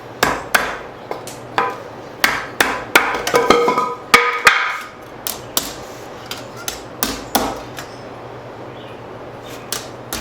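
Blacksmith's hammer striking leaf-spring steel on an anvil, bending a slight bow into the knife's one-piece steel handle. Irregular blows, with a quick run of strikes that ring out in the middle, then lighter, sparser taps.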